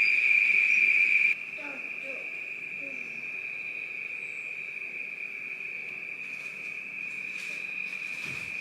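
Evening chorus of crickets: a steady, high-pitched trill that drops sharply in level about a second in and then carries on evenly.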